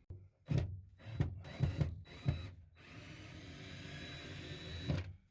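Power drill-driver unscrewing the screws that hold an interior board. Several short trigger bursts come first, then one steady run of about two seconds that stops just before the end.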